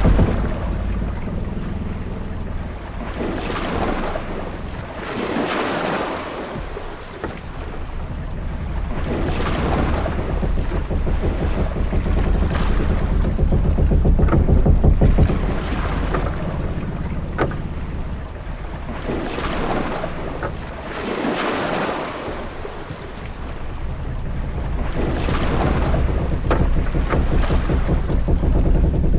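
Ship-at-sea ambience: waves washing against the hull in swells every few seconds over a steady low rumble of wind and sea, with a few brief creaks.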